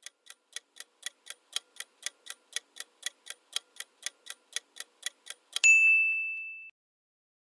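Quiz countdown timer sound effect: clock ticking, about four ticks a second, ending about five and a half seconds in with a single bell ding that rings out for about a second to signal time is up.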